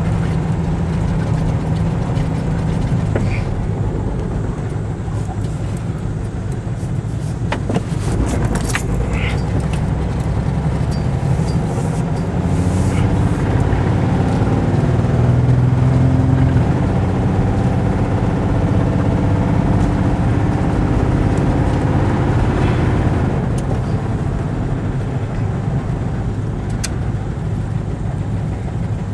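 1996 Chevy S10 Blazer's 4.3-litre V6 running steadily. It speeds up and gets a little louder through the middle, then settles back. The truck has a bad muffler and a faulty injector spider.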